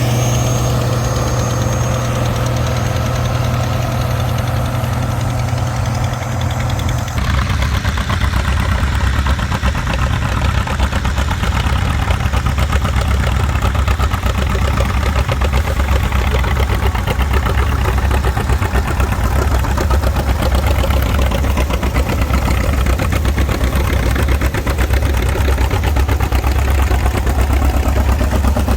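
Farm tractor engines running. About seven seconds in, the sound changes abruptly to a louder, lower, rapidly pulsing engine note that runs steadily on.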